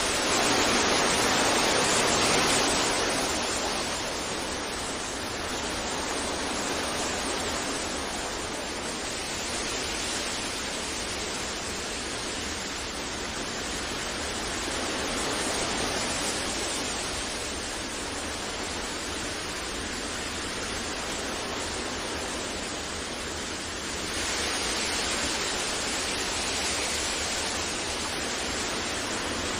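Steady wind blowing, loudest over the first couple of seconds, then easing to an even rush that swells slightly again about 24 seconds in.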